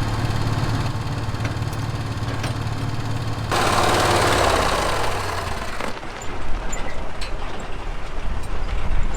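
Vehicle engine running steadily while towing a grain auger. About three and a half seconds in, a loud rushing noise comes up for a couple of seconds; then the engine drone drops and scattered knocks and rattles follow.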